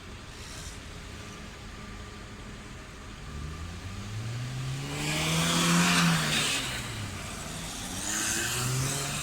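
A car's engine growing louder and rising in pitch as it approaches, passing close about six seconds in with tyre and road noise, then falling away; a second vehicle passes near the end.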